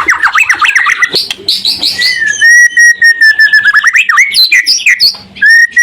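White-rumped shama singing loudly. A rapid run of sweeping notes gives way, about two seconds in, to a long steady whistle, followed by quick varied phrases.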